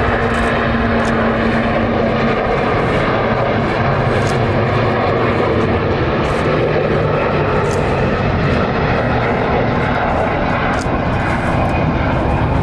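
Jet airliner engines running, a loud steady noise with no breaks.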